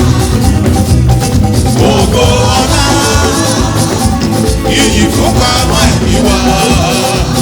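Loud church music with a steady beat, percussion and singing: a choir anthem with band accompaniment.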